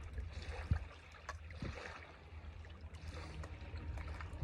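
Faint steady outdoor background noise with a low rumble, and two soft thumps in the first two seconds.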